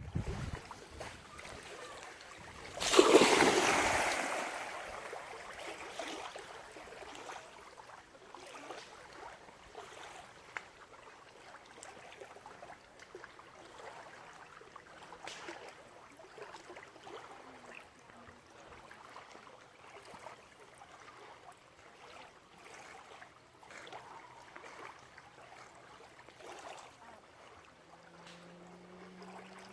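A loud splash into pond water about three seconds in, from a dog leaping in after a thrown stick, fading over a couple of seconds. It is followed by faint water lapping and small splashes as the dog swims.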